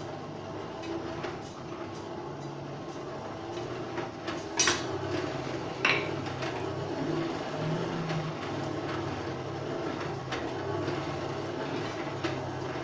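Steady rumbling hum of a coal forge fire under its air blast while a workpiece heats. Two sharp metallic clinks come about four and a half and six seconds in.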